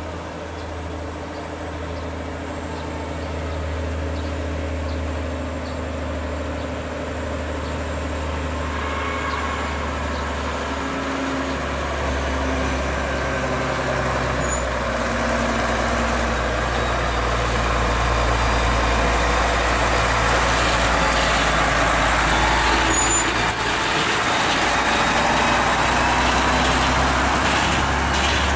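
Heavy Volvo truck's diesel engine running under load on an uphill road, a steady low drone that grows steadily louder as the truck comes closer.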